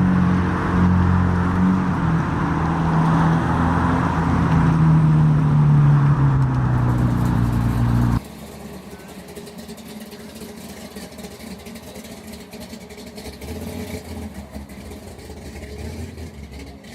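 A car engine running close by with a steady low rumble, cut off abruptly about eight seconds in, leaving quieter outdoor background sound.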